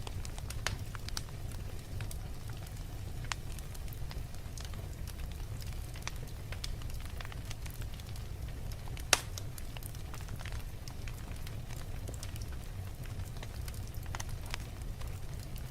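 Wood fire burning in a fireplace: a steady low rumble of flames with scattered crackles and snaps, and one sharp louder pop about nine seconds in.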